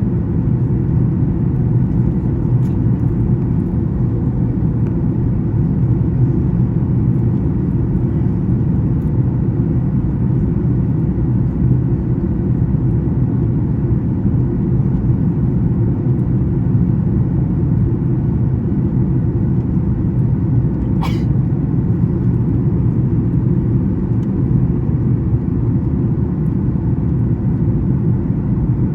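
Steady, loud cabin noise inside a Boeing 737 MAX 9 airliner in flight: a low, even rumble of engines and airflow. A single short click sounds about two-thirds of the way through.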